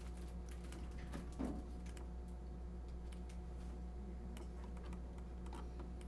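Scattered, irregular clicks of a computer keyboard and mouse being worked, over a steady low electrical hum.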